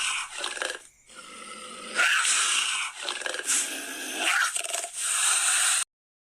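A dog growling in several loud, noisy bursts; the sound cuts off abruptly near the end.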